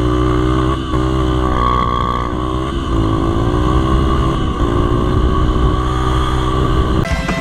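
Dirt bike engine running under way, its pitch dipping and shifting a few times as the throttle comes off and back on; the sound cuts off abruptly near the end.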